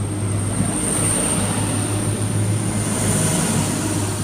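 A train running past on the line: a steady wash of noise over a low hum, with a thin high whine.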